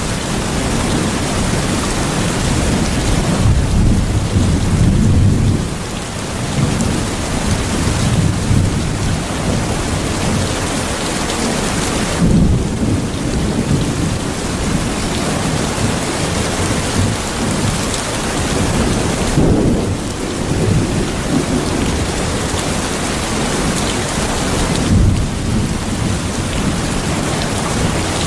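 Steady heavy rain with low rolling rumbles of thunder swelling and fading several times beneath it.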